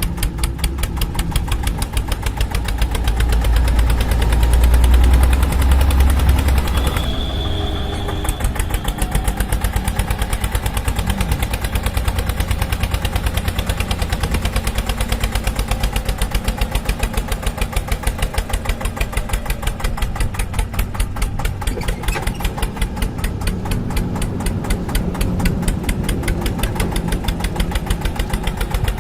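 Tractor engine running with a steady, rapid chugging. A deep rumble swells about four to seven seconds in.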